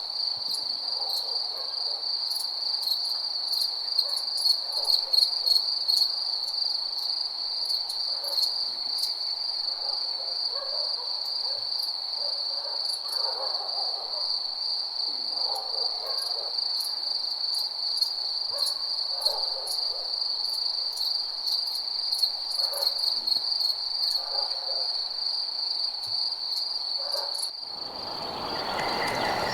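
Night ambience of crickets chirping in a steady, fast-pulsing high trill, with scattered lower calls from other night animals. A couple of seconds before the end the sound cuts abruptly to a different, noisier ambience.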